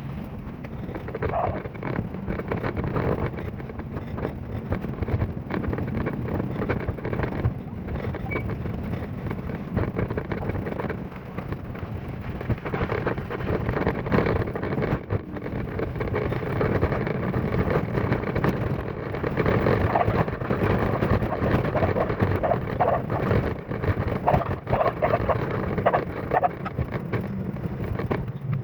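Vehicle driving along at speed: steady road rumble with wind buffeting the microphone.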